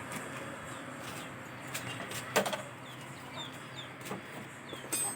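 Birds calling, with clucks and short high chirps over a low steady hum. A few sharp clicks come through, the loudest about two and a half seconds in and another near the end.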